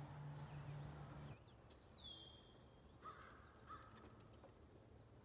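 Faint outdoor quiet with a few scattered bird calls: a clear whistle that slides down and levels off about two seconds in, then short chirps around three to four seconds in.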